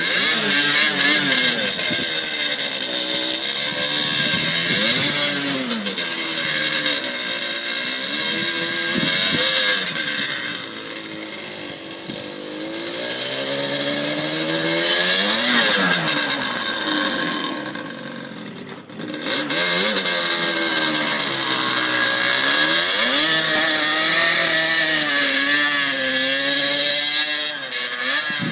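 Yamaha Banshee ATV's twin-cylinder two-stroke engine, revving up and falling back again and again as the quad is ridden, with a brief drop in level about two-thirds of the way through.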